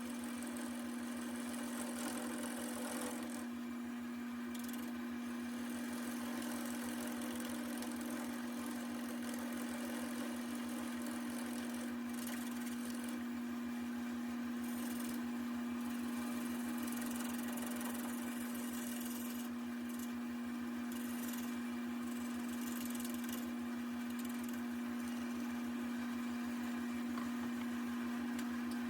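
Wood lathe running with a steady motor hum while a turning tool cuts a walnut table leg, the scraping of the cut coming and going over the hum.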